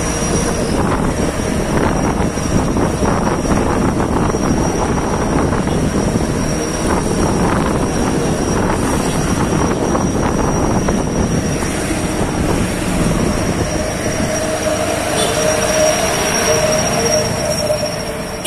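Truck engine running through an aftermarket racing exhaust: a loud, steady mechanical noise with no break. A steady tone comes in over the last few seconds.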